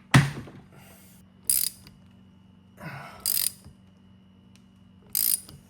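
A sharp metal strike, then three short bursts of ratchet-like clicking about one and a half to two seconds apart: hand tools working seized boiler bolts.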